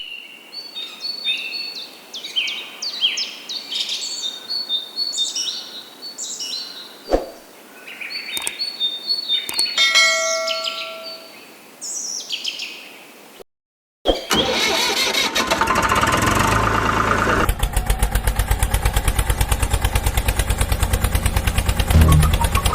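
Quick chirping bird calls for about the first half, then after a brief gap a small motor starts and runs with a fast, steady buzzing rattle.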